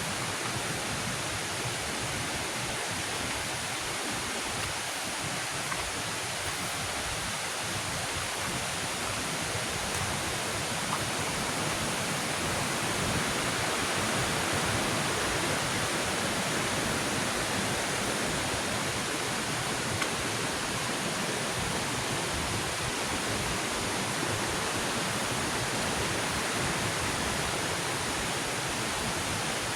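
Waterfall: a steady rush of falling water, swelling slightly about halfway through.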